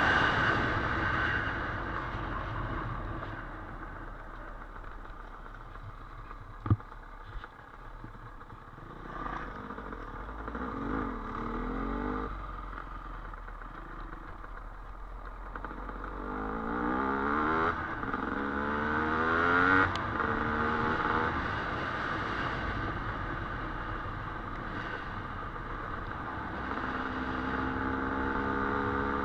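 Dirt bike engine on a trail ride, revs rising and falling as it is ridden, with repeated climbs in pitch through the middle and later part. A single sharp knock about seven seconds in.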